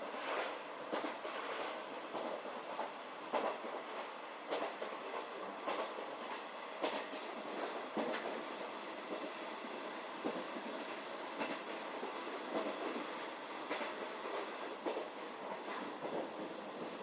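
711-series electric train running, its wheels clacking over rail joints at irregular intervals over a steady running noise, heard from inside the carriage.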